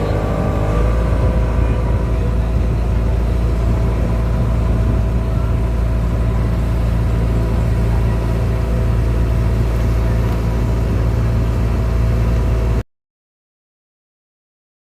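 Motorboat engine running steadily with a strong low rumble, its note shifting up slightly about a second in. The sound cuts off abruptly near the end, leaving dead silence.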